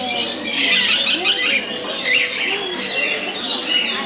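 Many parrots squawking and chattering at once, in a dense flurry of short, overlapping calls that is loudest about half a second to a second and a half in.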